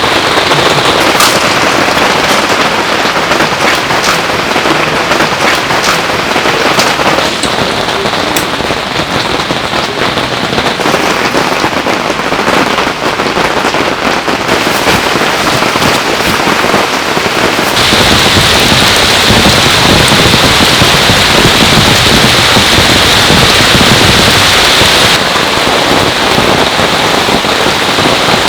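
Heavy rain pouring down, with a dense crackle of individual drops hitting close surfaces. It grows louder for several seconds about two-thirds of the way through, then eases back.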